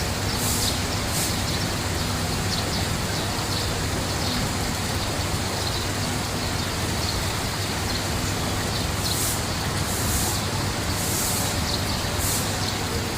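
Steady rushing of water at a koi pond, with a low hum underneath and a few brief hissy swells high up in the second half.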